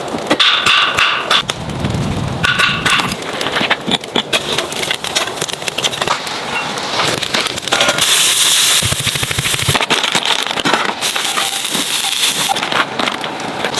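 Fire in a camping fire pit crackling and popping, with many irregular snaps. A denser hiss rises about eight seconds in.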